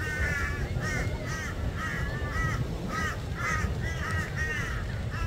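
A bird calling over and over, a quick run of short harsh calls at about three a second, with a steady low rumble underneath.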